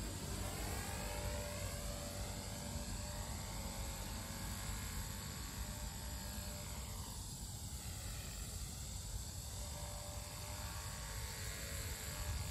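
V950 electric RC helicopter in flight, with a steady buzz from its motor and rotors. The tone sweeps up and down as it moves about overhead.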